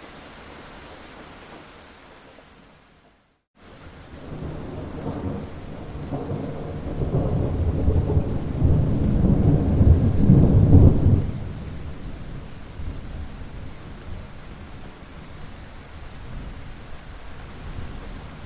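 Steady rain that briefly drops out to silence about three seconds in, then returns with a long, deep roll of thunder that builds for several seconds, peaks and dies away, leaving the rain going on.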